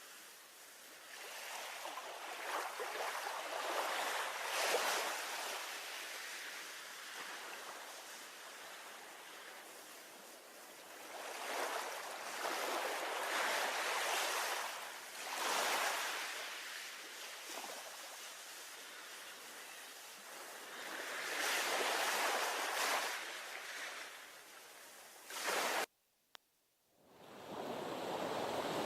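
Sea waves washing against a harbour breakwater, the surf swelling and fading in slow surges every several seconds. Near the end the sound cuts out for about a second, then comes back.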